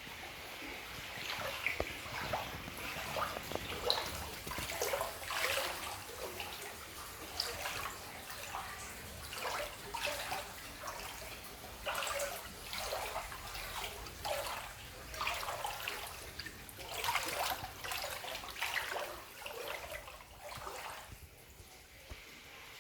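Floodwater splashing and sloshing in irregular bursts about a second apart, easing off near the end.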